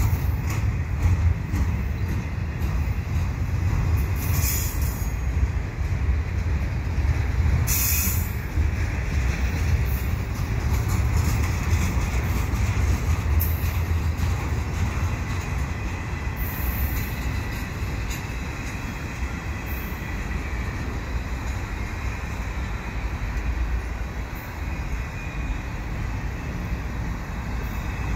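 CP double-stack container train rolling past: a steady low rumble from the wheels of the loaded well cars, with quick clicks over the rail joints and a few brief high wheel squeals about four and eight seconds in.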